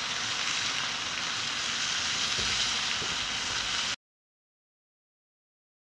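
Chicken pieces sizzling in oil in a cast iron Dutch oven over a propane burner, a steady hiss with a soft knock or two. About four seconds in, the sound cuts off suddenly to dead silence.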